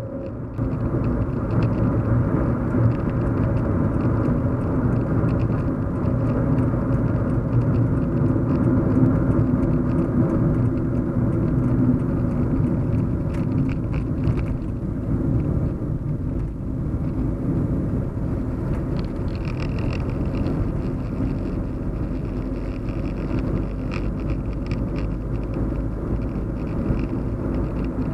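Steady low hum and rumble of a car driving, heard from inside the cabin: engine drone under road and tyre noise. It grows louder about half a second in, then holds steady.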